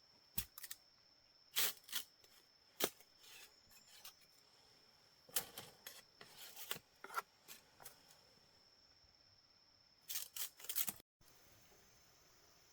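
Irregular sharp clicks and snaps in small clusters, over a thin, steady high-pitched tone.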